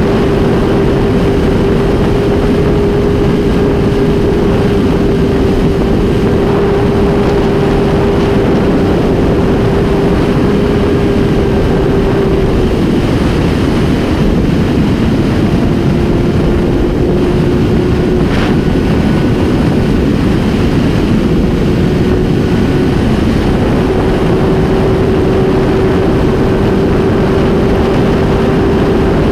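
Honda CBR1000RR inline-four engine held at high, steady revs at highway speed, with heavy wind rush on the microphone. The engine note sags a little about halfway through and then climbs back.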